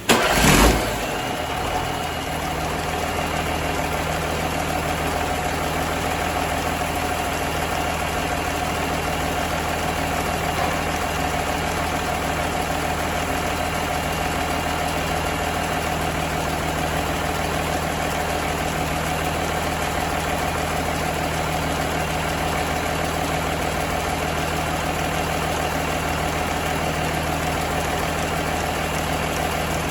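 John Deere 6-531T six-cylinder turbocharged diesel engine starting with a sudden loud burst right at the start, then settling into a steady idle.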